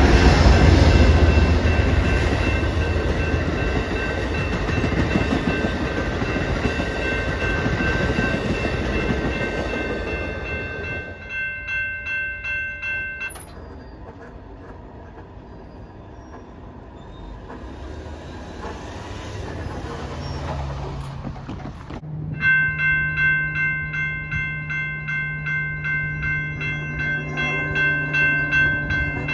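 An Amtrak diesel locomotive and its train rush past a grade crossing while the crossing bells ring; the train noise dies away about ten seconds in, the bells ring on alone briefly and then stop. After a quieter stretch with a low hum, the crossing bells start ringing again near the end, about two strokes a second, as the signals reactivate.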